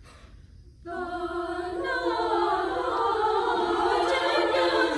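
Choir singing an unaccompanied Renaissance madrigal, all voices entering together about a second in and holding sustained chords, with a change of notes shortly after.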